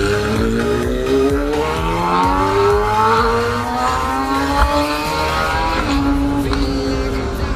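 Motorcycle engine accelerating, its pitch climbing over the first few seconds, then dropping and holding steady, with music underneath.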